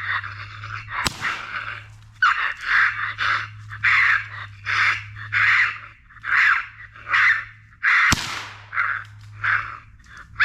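Raccoon call squalling, raspy short cries repeated about twice a second to mimic a raccoon in distress or fighting. Two sharp cracks stand out, about a second in and about eight seconds in.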